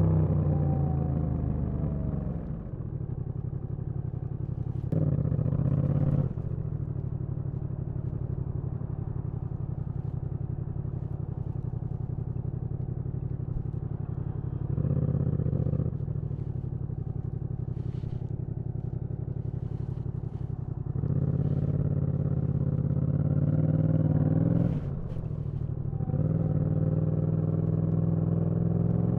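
Yamaha MT-07 parallel-twin motorcycle engine. It slows down at first, then ticks over at low revs with two short pulls on the throttle. Near the end it pulls up through the revs, drops sharply at a gear change, and pulls again.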